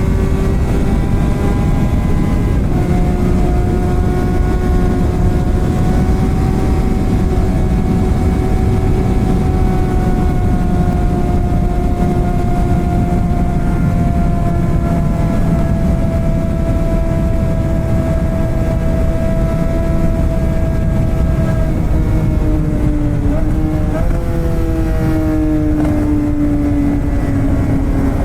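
Straight-piped Suzuki GSX-R600 K7 inline-four held at high revs at speed, its pitch sagging slowly, then dropping in a couple of steps near the end. Heavy wind rushes over the microphone underneath.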